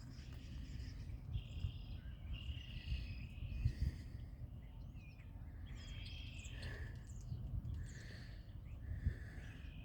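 Birds chirping and singing in short repeated high notes over a steady low rumbling background noise.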